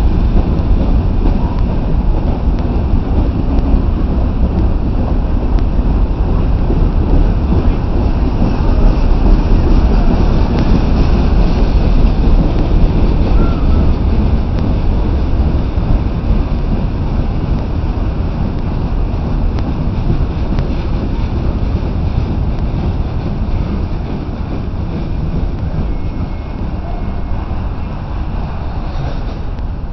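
BNSF mixed freight train's cars rolling past on the rails, a steady low rumble with wind buffeting the microphone. It fades over the last several seconds as the end of the train moves away.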